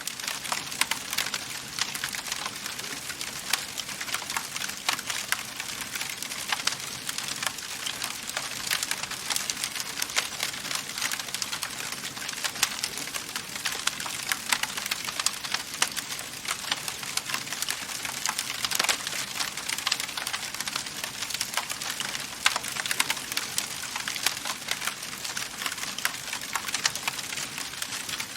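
Wood fire burning in a fireplace, crackling steadily with many small pops and snaps over a soft hiss, and a sharper snap about nineteen seconds in.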